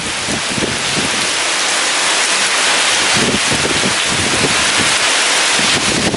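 Heavy rain pouring steadily, with strong wind gusting in uneven low rumbles that buffet the microphone.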